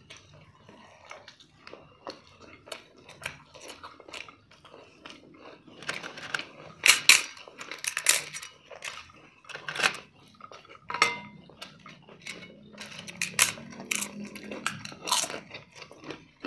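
Close-up eating sounds: chewing and crunching of crisp fried food, with scattered clicks and taps of fingers and food on plates. The crunches get louder and more frequent from about halfway through.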